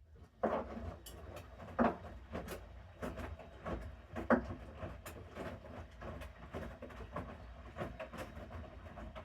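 Bosch Series 6 washing machine drum in the main wash, starting to turn about half a second in and tumbling a wet mixed load. Water and laundry slosh with irregular soft thuds and knocks over a low steady hum.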